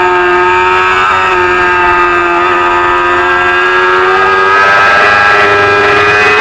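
Small-displacement Supersport 300 racing motorcycle engine at high revs under throttle, a loud, nearly steady high-pitched note that sags slightly and climbs again near the end.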